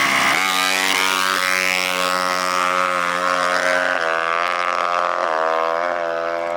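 A small off-road racing engine running at a steady pitch, with brief dips and recoveries in pitch about four and five seconds in as the throttle changes.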